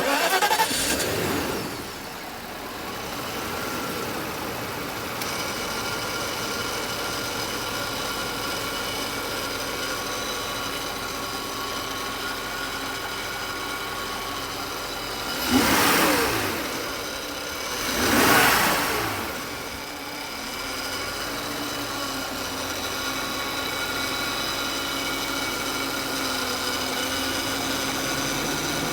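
Car engine starting from cold: it catches with a loud flare, settles within a couple of seconds into a steady fast idle with a constant whine, and is blipped twice about two and a half seconds apart, rising and falling each time, before idling on.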